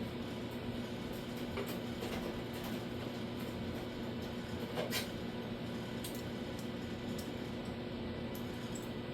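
Steady low machine hum, with a few light clicks and one sharper knock about five seconds in.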